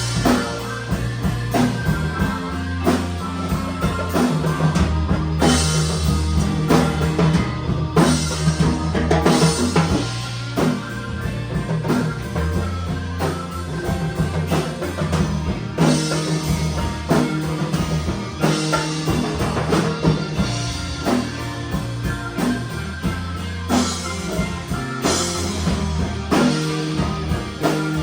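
A rock band playing an instrumental passage with a full drum kit, bass and electric guitar, with a steady beat and cymbal crashes.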